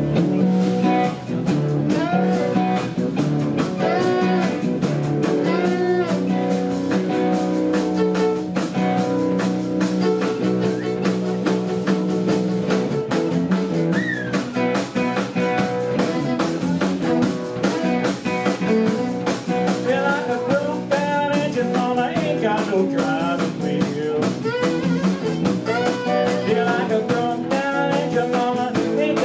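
Live blues band playing: guitar, violin and drums at an even, steady level, with notes that slide up and down in pitch.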